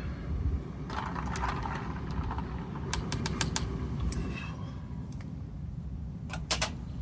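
Four quick, light metallic clinks about three seconds in, and two more near the end, over a low steady rumble.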